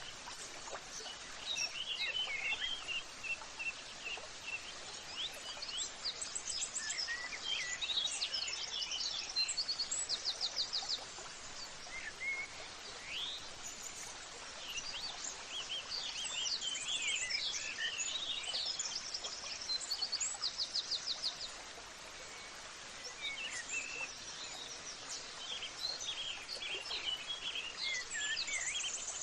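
Several birds singing and chirping over a steady background hiss, with many short calls and quick repeated trills that overlap throughout.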